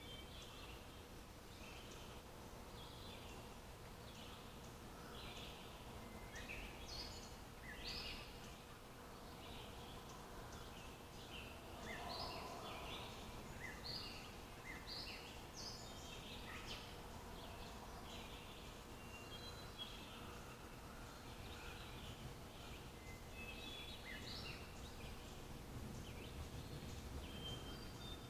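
Several small songbirds chirping and singing in quick, short notes, over a faint low outdoor rumble and a thin steady hum.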